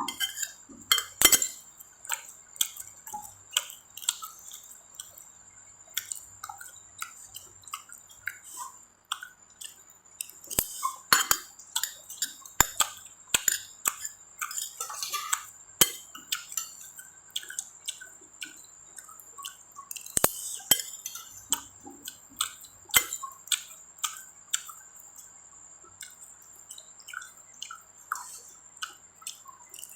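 Close-miked eating sounds: irregular wet chewing smacks and mouth clicks, with occasional clinks of utensils on a dish, over a faint steady high-pitched whine.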